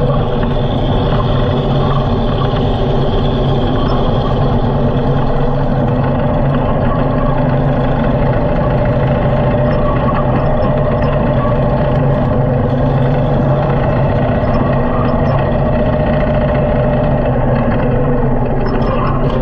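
Harley-Davidson motorcycle's V-twin engine running at a steady speed, with no revving or gear changes.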